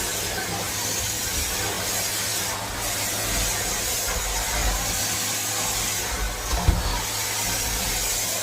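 Vacuum cleaner running steadily, its motor humming under a hissing rush of air, with a single knock about two-thirds of the way through.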